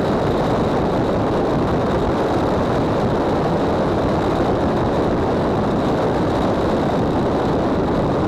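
Steady vehicle noise: an even, unchanging rumble with a faint high steady whine above it.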